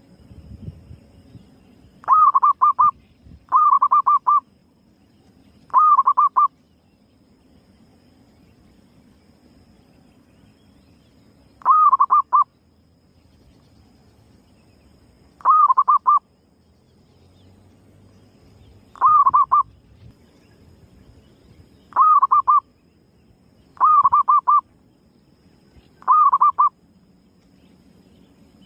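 Female zebra dove (perkutut) cooing: nine short calls, each a quick run of pulsed notes, repeated at irregular gaps of about two to six seconds.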